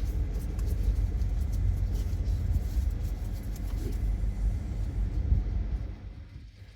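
Low, steady rumble of a car running, fading away about six seconds in.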